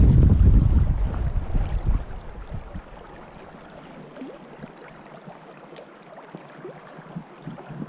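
Wind buffeting the microphone, loud and gusty for about the first two seconds, then dying down to a faint steady outdoor hiss with a few light ticks.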